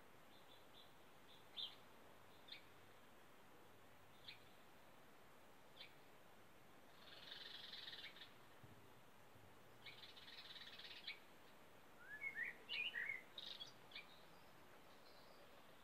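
Garden birds singing, faint overall: short sharp high call notes every second or two, two buzzy trilled phrases about a second long, and near the end a louder burst of quick, varied warbling notes.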